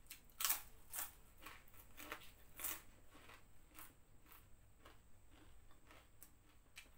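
Prawn cracker (kerupuk udang) being bitten and chewed close to the mouth: a run of crisp crunches in the first three seconds, then fainter chewing crunches.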